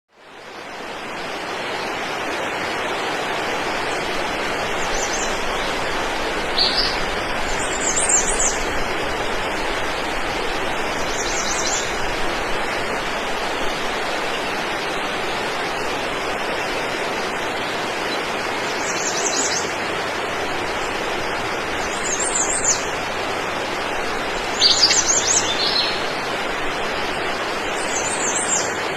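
Steady rushing of a waterfall, with short high bird chirps breaking in about eight times.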